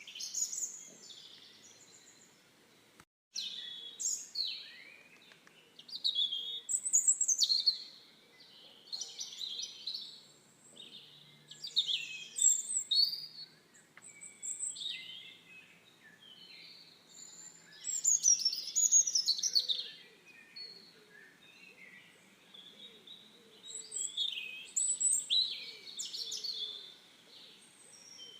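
Several songbirds singing and chirping in overlapping, quick high phrases, the loudest bursts every second or two. The sound cuts out completely for a moment about three seconds in.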